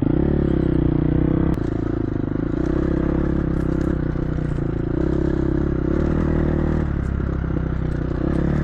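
Dirt bike engine running at a steady, moderate throttle while riding a rough trail, with clattering and scraping over the top and a couple of sharp knocks.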